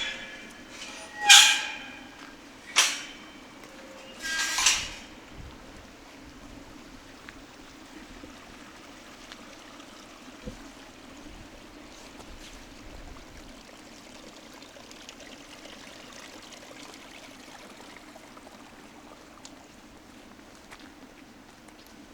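Water running steadily in a small stream, with three short, loud, sharp sounds in the first five seconds.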